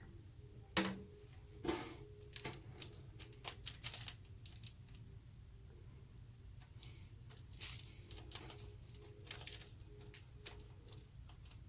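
Faint, irregular clicks and soft taps of breadcrumb-coated chicken pieces being handled in a baking pan while they are coated with vegetable oil.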